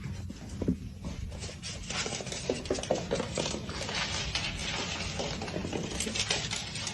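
A pet scrabbling after its own tail, a fast, irregular clatter of clicks and rattles that grows busier about two seconds in.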